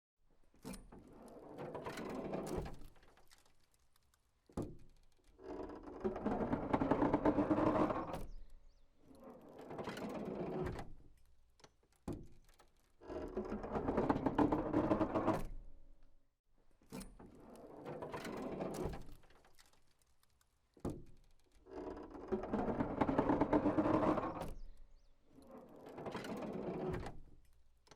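A slow, regular creaking: long drawn-out creaks of about three to four seconds each, one after another, every other one louder, each starting with a sharp click.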